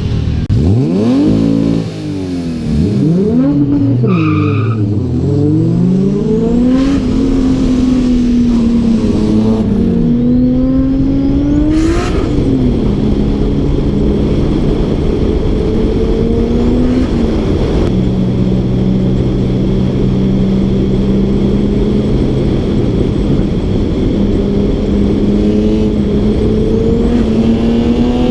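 Car engine accelerating hard: its pitch climbs and drops sharply several times in the first ten seconds as it shifts through the gears, then holds a steady cruising note and slowly rises again near the end.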